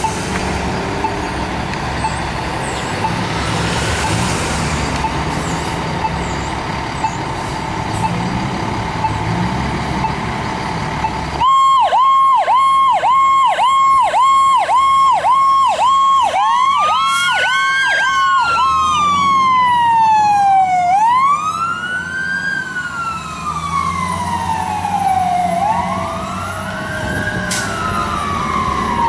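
Emergency vehicle sirens on a fire engine and ambulance responding to a call. After about eleven seconds of engine and road noise, an electronic siren starts suddenly on a fast yelp, then switches to a slower rising and falling wail. A second siren wails over it near the end.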